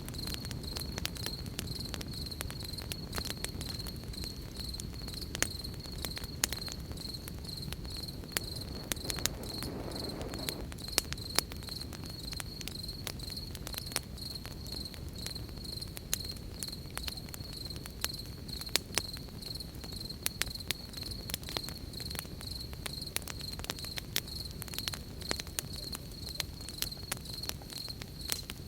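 Campfire crackling with frequent sharp pops and a low rumble of burning, against a steady high chirring of crickets.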